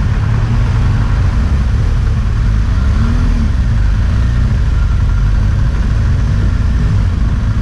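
Motorcycle running at a steady speed, a loud, even low rumble of engine and road noise that holds without change in pitch.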